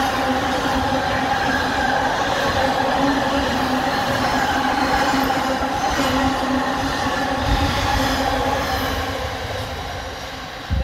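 Freight train going by: a steady rail rumble with held tones running through it, fading away over the last few seconds, and a single knock at the very end.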